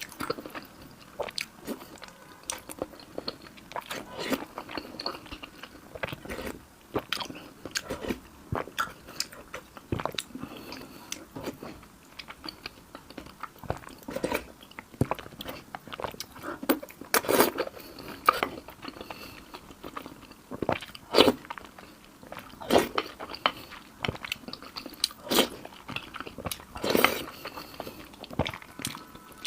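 Close-miked eating: a person biting and chewing crunchy food, with irregular crisp crunches and wet mouth sounds, a few louder crunches in the middle.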